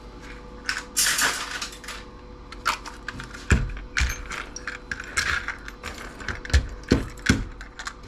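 Small metal screws and hardware clinking and rattling as they are handled and tossed into sorting containers, with several duller knocks in the second half.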